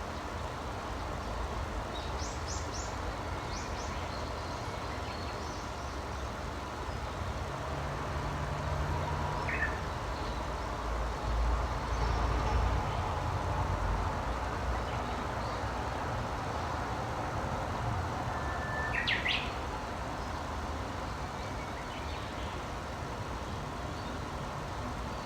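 Wild birds calling now and then in short, high chirps: a quick run of notes a couple of seconds in, a single note near the middle, and a brief cluster about three quarters of the way through. Underneath runs a steady low rumble of outdoor background noise that swells for a few seconds midway.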